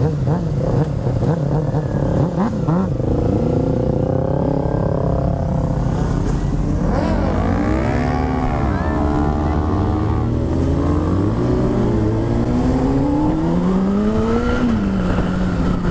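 2006 Honda CBR600RR's inline-four engine under way, its pitch climbing and dropping several times as the throttle is worked through the gears, over a steady rush of wind noise.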